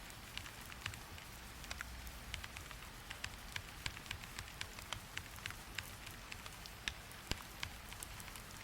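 Steady rain hiss with scattered sharp clicks, a few each second at irregular intervals.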